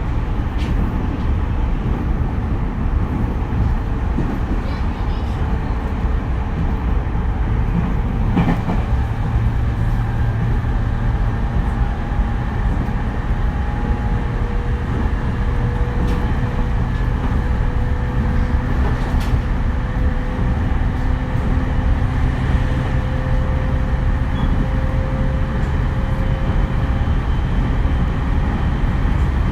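E231 series electric train running, a steady rumble of wheels on rail. Over it runs a faint whine from its unrenovated VVVF inverter and traction motors, rising slowly in pitch. A few sharp clicks come from the rails.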